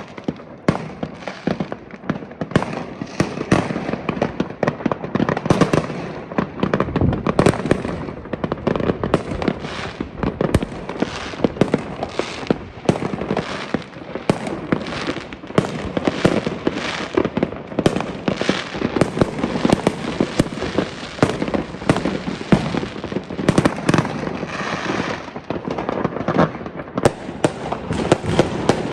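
Fireworks going off in a dense, continuous barrage: many overlapping cracks and bangs, some sharp and close, with no pause.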